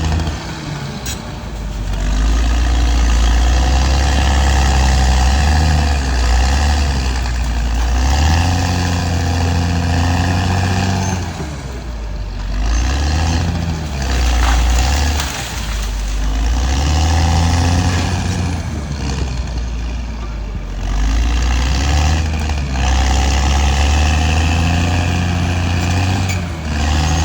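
Caterpillar D6R XL bulldozer's diesel engine working under load, its pitch rising and falling over and over as the machine pushes and eases off, with several brief drops in engine speed.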